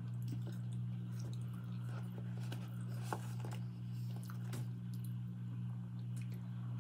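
A person chewing French fries with soft, wet mouth sounds and a few small sharp clicks, over a steady low hum.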